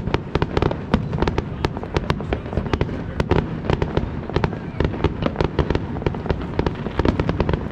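Fireworks going off in rapid succession: a dense string of sharp bangs and crackles, several a second, over a continuous low rumble of booms.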